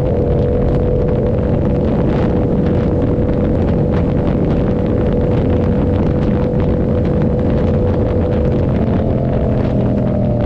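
Yamaha R7's 689 cc parallel-twin engine through an SC Project exhaust, running at a steady cruise with wind rush. The engine note holds steady, then rises a little near the end.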